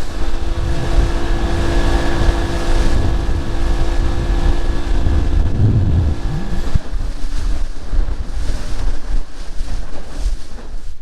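Boat motor running at speed across the lake, with heavy wind buffeting the microphone. The motor's steady hum fades out about seven seconds in, leaving the wind noise.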